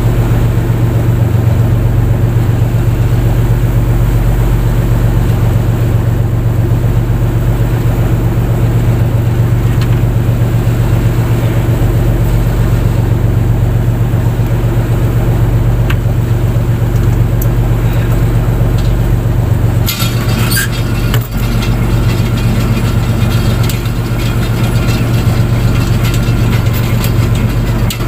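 Fishing boat's engine running at a steady speed, a loud low drone with an even hum. About two-thirds of the way through, a crackling, clicking noise joins it.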